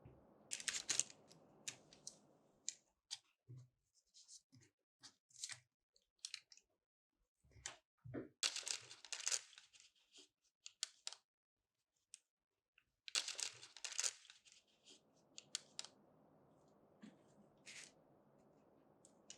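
Crisp paper crinkling and tearing in three short bouts, with small clicks and taps of handling in between.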